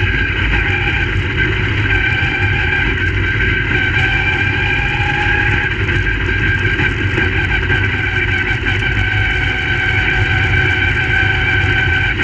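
Crate late model race cars' V8 engines running, a loud, steady engine drone with a few held high tones over a constant low rumble.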